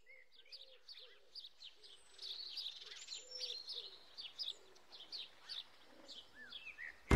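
A woodland bird chorus: many birds chirping and singing in quick high calls, with a lower warbling call repeating underneath.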